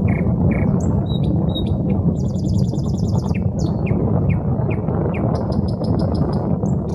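Nightingale singing in varied phrases: scattered short whistles and clicks, a fast rattling trill about two seconds in, and a run of quickly repeated notes near the end. A steady low rumble runs underneath.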